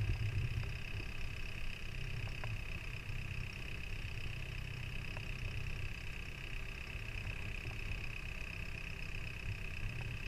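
A boat's engine running steadily: a continuous low rumble with a steady high-pitched hum above it, and a few faint ticks.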